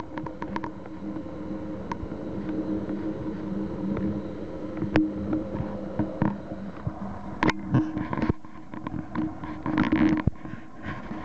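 Diesel-hauled passenger train moving away along the track: a steady low engine drone, with scattered sharp clicks and a few louder noisy patches about eight and ten seconds in.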